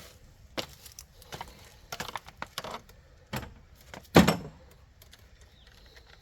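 A string of scattered clanks and knocks from tools and parts being handled during front-strut work, the loudest a little after four seconds in.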